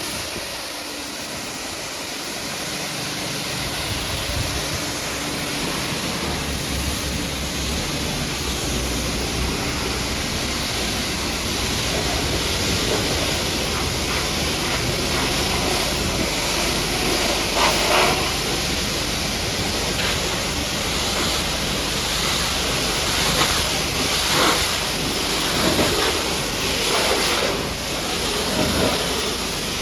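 High-pressure washer jet spraying water, a steady hiss, with louder splashes now and then in the second half.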